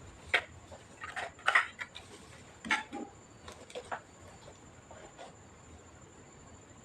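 Irregular small clicks and taps of hands handling the plastic and metal parts and tools of an all-in-one PC being taken apart, clustered in the first four seconds and then tailing off, over a faint steady high-pitched whine.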